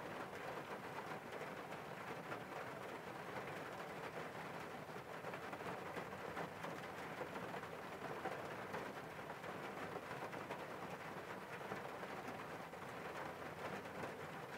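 Steady rain hitting a car window: a dense, even spray of small drop impacts at a constant level, with no single loud hits.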